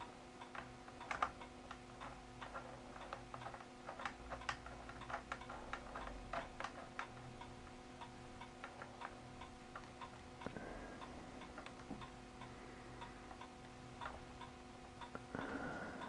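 Faint, scattered clicks and ticks of camera-rig hardware being handled as a small camera is screwed onto its mount, over a steady faint hum.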